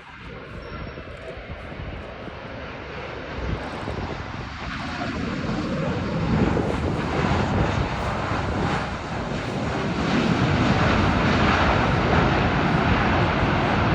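Jet airliner engines with a broad, rushing noise that grows steadily louder as the aircraft draws closer, loudest near the end.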